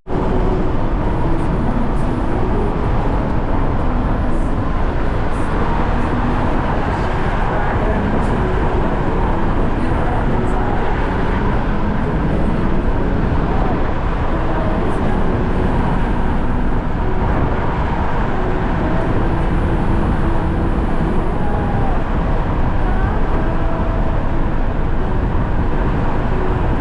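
Steady road noise from a moving car: a loud, even rumble and hiss of tyres and engine.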